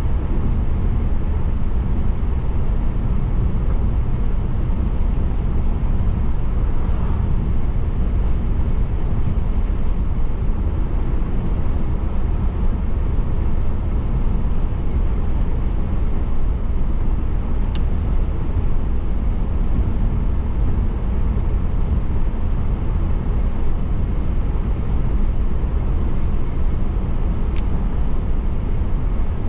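Steady road noise of a car driving on a wet road in light rain, tyres and engine running evenly. A few faint clicks come about every ten seconds.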